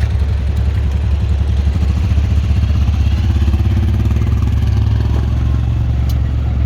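Big diesel truck engine running at idle: a steady low rumble with a fast, even beat.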